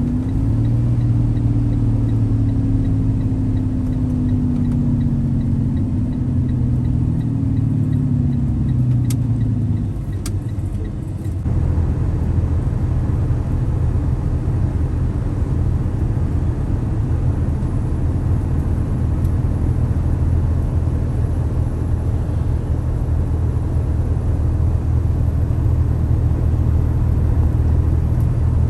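RV engine and road noise while driving, heard from inside the vehicle: a steady hum whose pitch sags slowly over the first ten seconds. It dips briefly, then settles into a fuller, steady rumble from about eleven seconds in.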